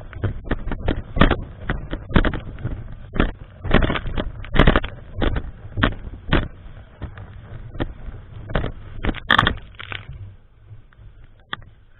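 Strong typhoon wind gusting across the microphone, an uneven rumbling buffet with sharp crackling blasts that eases off near the end.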